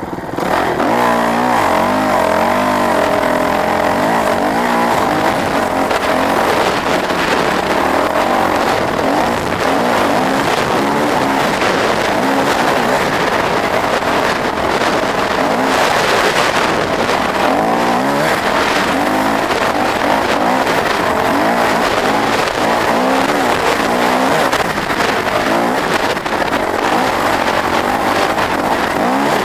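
Off-road motorcycle engines revving, their pitch rising and falling over and over.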